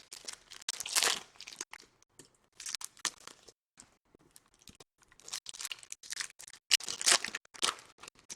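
Foil packs of 2014 Topps Chrome trading cards being torn open and crinkled by hand, in short irregular rips with brief pauses between.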